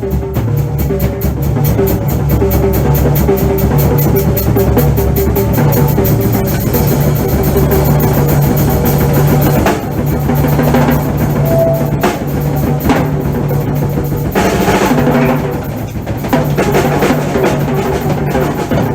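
Drum kit played solo. It opens with a long run of fast, even strokes, heavy on the bass drum, then breaks into uneven fills with cymbal crashes from about halfway through.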